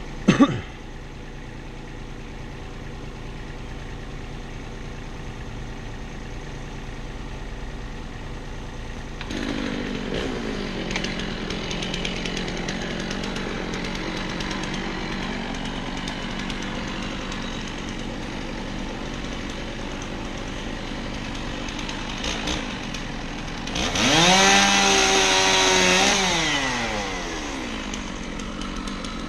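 Chainsaw engine running throughout, with a sharp knock right at the start. About nine seconds in it is revved and then held at a lower, steady speed. Near the end it runs up loud for about three seconds, pitch rising and then falling back.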